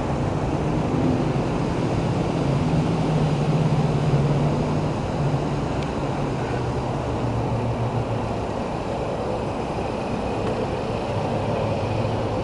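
A car engine runs with a low hum that holds steady for a few seconds and then drops lower in pitch, over a steady outdoor rush of air.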